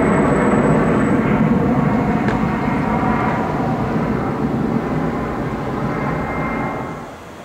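Airliner engine noise from a passing aircraft, a loud steady rush that slowly fades and drops away sharply near the end.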